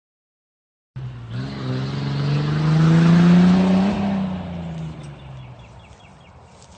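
Truck driving past with its engine running loud; the engine pitch rises as it approaches, peaks about three seconds in, then drops and fades as it moves away.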